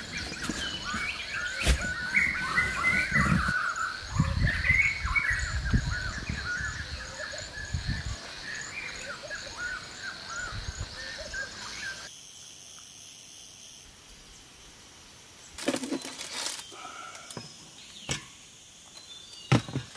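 A dense chorus of small birds chirping and calling, with a high note repeating over and over. About twelve seconds in it cuts off to a quieter background broken by a few sharp knocks.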